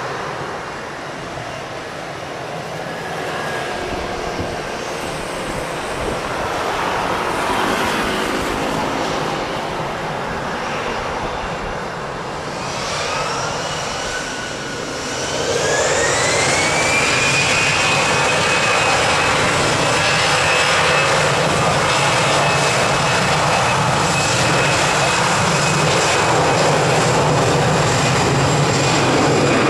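Airbus A320-214 jet engines spooling up for takeoff: a whine rises in pitch over a few seconds about halfway in, then holds steady and louder at takeoff thrust.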